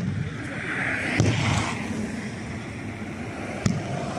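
Aerial fireworks shells bursting: a sharp boom about a second in and another near the end, each followed by a long echoing rumble.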